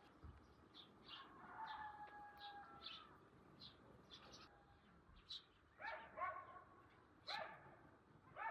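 Faint farmyard sounds: small birds chirping throughout, a drawn-out whine about a second in, then a dog barking three times near the end.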